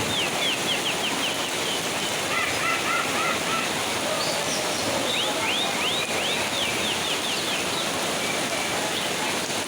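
Steady heavy rain falling, with caged songbirds singing through it in quick series of high chirps near the start and again in the second half, and a few lower chirps in between.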